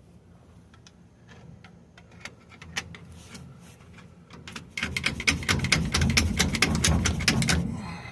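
Differential carrier being worked loose in the rear axle housing. A few scattered clicks, then about five seconds in a loud rapid run of clicking and rattling that lasts nearly three seconds.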